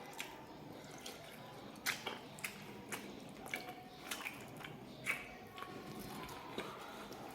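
Wet mouth sounds of a person eating: chewing and smacking, with about a dozen short, sharp clicks scattered irregularly.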